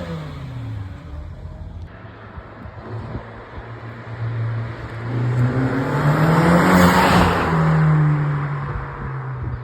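A car engine running and drawing closer, growing loud as the car passes about seven seconds in, then easing off.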